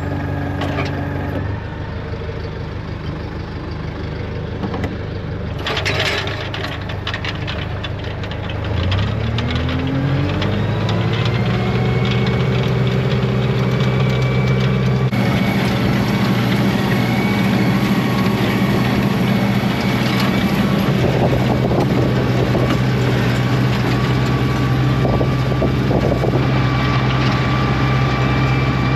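International tractor engine running under a steady load. About nine seconds in, its pitch rises as the engine speeds up and then holds steady.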